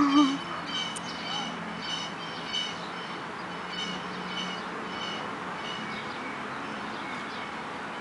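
A bird repeating a short, high chirping call about twice a second, the calls coming further apart in the second half, over steady outdoor background noise. A brief voice sound right at the start.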